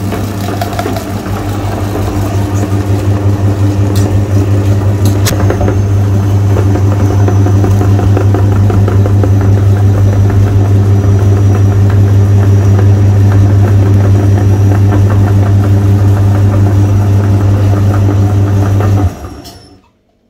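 Electric meat grinder running steadily with a loud low hum and a rattling texture, two sharp clicks a few seconds in; it is switched off about 19 seconds in and whirs down within a second.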